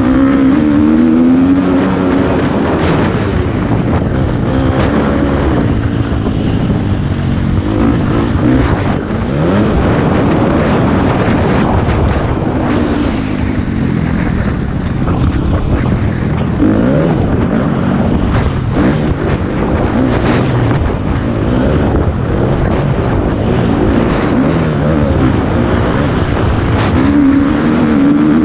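Motocross bike engine being ridden hard, its revs climbing in pitch and dropping again over and over, with wind buffeting the helmet-mounted microphone.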